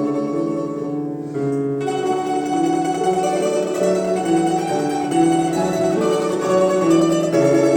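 A quartet of domras, Russian plucked lutes, playing a melody in harmony with several voices holding notes. The playing thins out about a second in, then fills out again.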